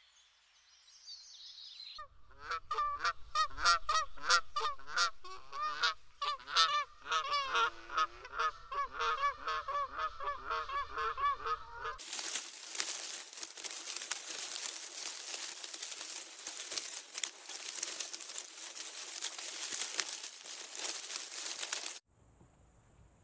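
Wreathed hornbills giving a long series of loud, repeated honking calls, some overlapping. About halfway through, the calls give way abruptly to a steady, dense hiss that cuts off suddenly near the end.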